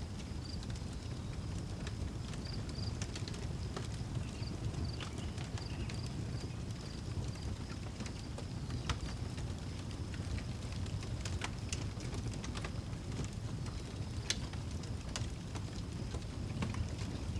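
Wood fire crackling, with scattered sharp pops over a low steady rumble. Crickets chirp steadily in a high, pulsing band behind it.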